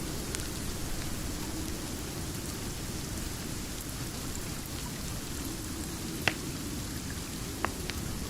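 Steady rain with a dense low rumble, dotted with faint ticks. Two sharp pops come late on, like a wood fire crackling.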